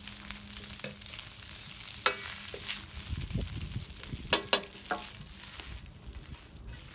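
Fried rice sizzling in a pan over a campfire while it is stirred, with a cooking utensil knocking sharply against the pan several times.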